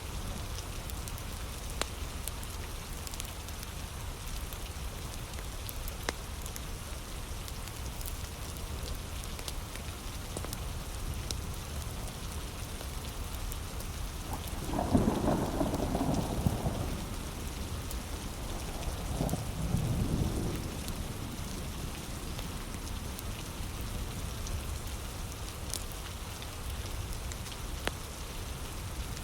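Steady heavy rain falling in woodland, with occasional sharp crackles from a wood fire. Two deep rumbles come about halfway through, one shortly after the other.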